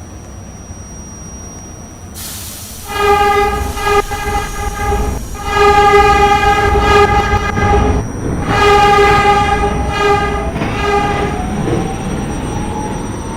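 New York City subway train sounding its horn in three long blasts over the rumble of the moving train.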